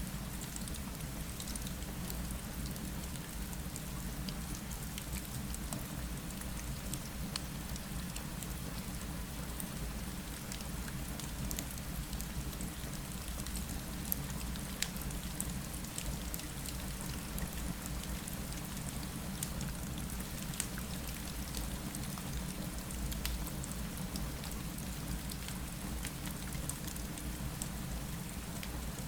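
Steady rain falling against a window, over a low steady rumble, with small sharp crackles and ticks scattered throughout from a fireplace fire.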